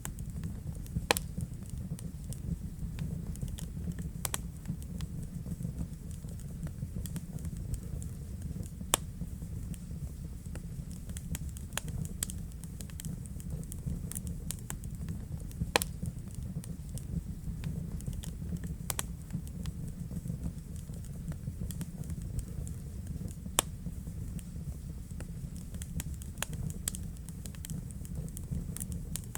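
Wood fire burning in a fireplace: a steady low rumble of the flames with scattered sharp crackles and pops, a few louder ones standing out.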